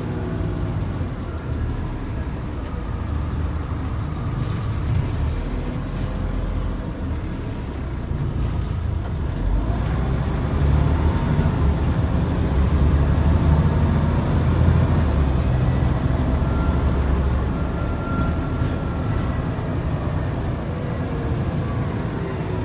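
Scania N94UD double-decker bus's DC09 diesel engine running under way, working harder and louder around the middle, with a faint whine rising and falling in pitch.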